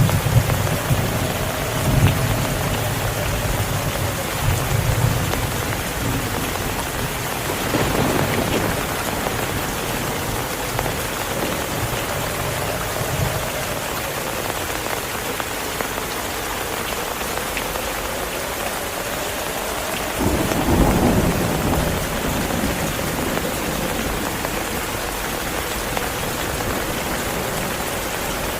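Steady heavy rain with thunder: low rumbling through the first few seconds, then rolls of thunder about 8 seconds in and again about 21 seconds in.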